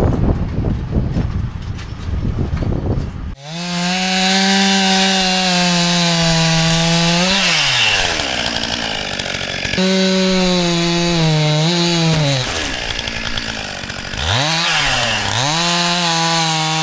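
A dense rumbling noise for about three seconds, then a chainsaw comes in suddenly at high revs. It runs in three spells as it cuts through the logs, bogging slightly under load, and its pitch falls away each time the throttle is let off.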